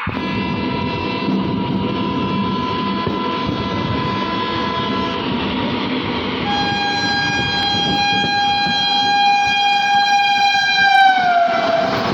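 Train horn blowing two long steady blasts over the rumble of a train running on the bridge. The second blast is louder and drops in pitch near the end.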